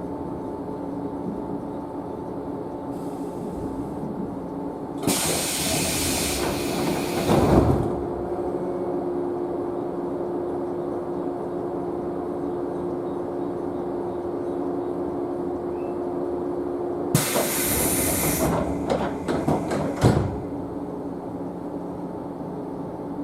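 JNR 113-series electric train standing at a station with its onboard equipment humming steadily. Twice comes a loud burst of compressed-air hiss, each ending in a thud or a run of clicks.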